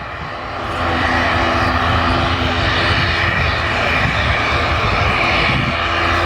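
Aircraft engines running loud and steady, swelling about a second in and then holding.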